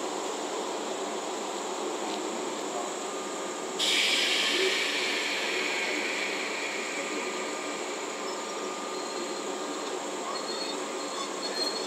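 JR West 381 series limited express electric train pulling slowly out of the station with a steady running rumble. A sudden hiss of air starts about four seconds in and fades away over several seconds, and a faint high wheel squeal begins near the end.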